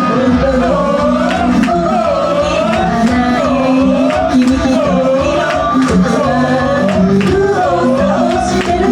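Live pop music: a woman singing a wavering melody over loud backing music with a steady drum beat.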